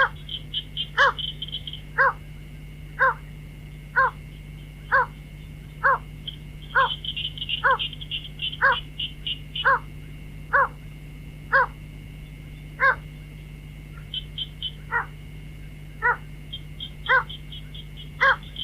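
White-breasted waterhen calls played as a lure: a harsh call about once a second, with bouts of rapid higher chattering at the start, in the middle and near the end.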